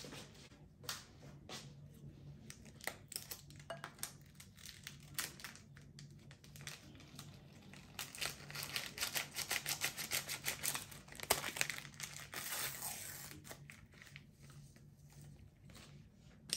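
Rustling, crinkling handling noise with scattered sharp clicks, thickening into a rapid run of crackles about halfway through, over a faint steady low hum.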